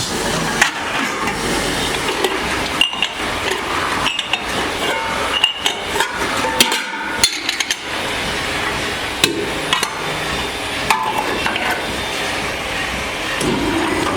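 Irregular hammer strikes on metal at an uneven pace, over steady workshop noise.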